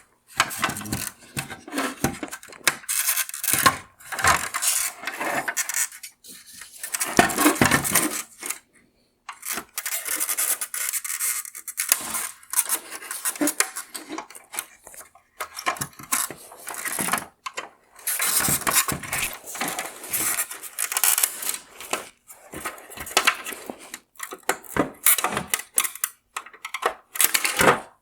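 Hard plastic parts of a Mercedes-Benz ML LED tail lamp scraping, rubbing and clicking in irregular bursts as the lamp is taken apart, with brief pauses between bursts.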